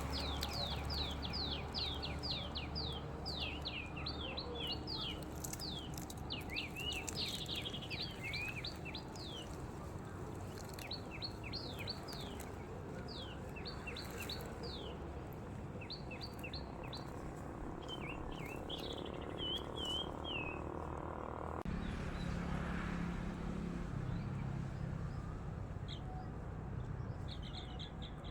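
Many small birds chirping together: a dense run of short, quick, high chirps that thins out about two-thirds of the way through and picks up again near the end, over a steady low background hum.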